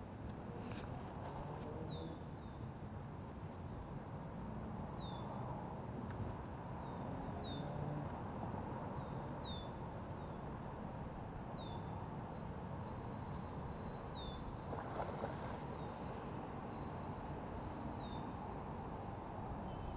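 A bird repeating one short, high, falling call about every two seconds over a steady low rumble.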